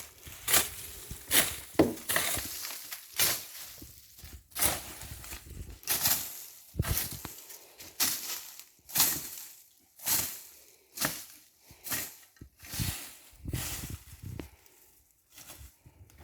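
Repeated crunching strokes in dry forest vegetation, about one every three-quarters of a second, stopping shortly before the end.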